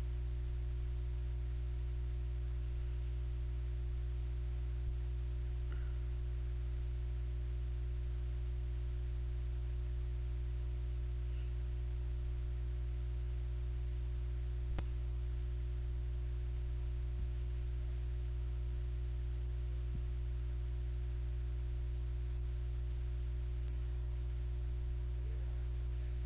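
Steady electrical hum at one pitch with its overtones, unchanging throughout, with a few faint clicks.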